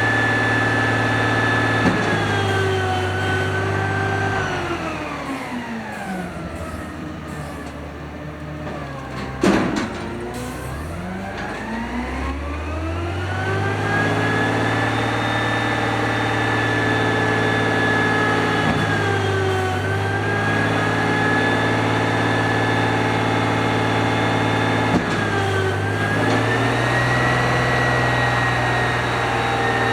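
Automated side loader garbage truck's engine held at raised revs to drive the hydraulic packer, its pitch sliding down to a low idle and climbing back up, with one loud metallic bang at the bottom of the dip about a third of the way in. Later the revs sag briefly twice and recover.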